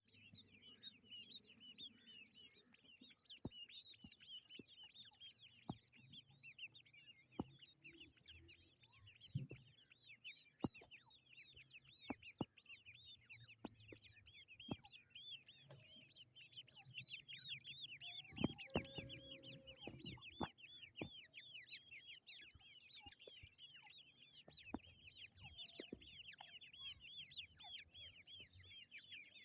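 Grey francolin chicks peeping continuously, a dense run of short, high, arched cheeps overlapping one another, with scattered sharp clicks.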